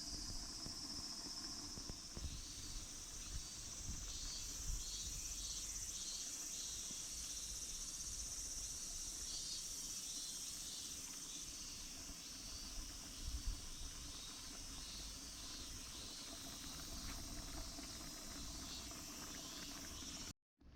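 Insects singing: a steady high buzz with a series of short chirps repeating just below it.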